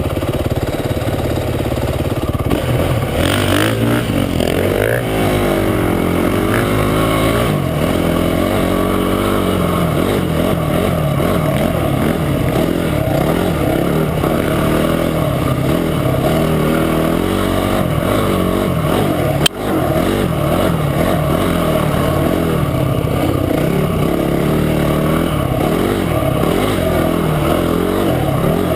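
Motorcycle engine running under way on a trail ride, its pitch rising and falling as the throttle opens and closes. A single sharp click about two-thirds of the way through.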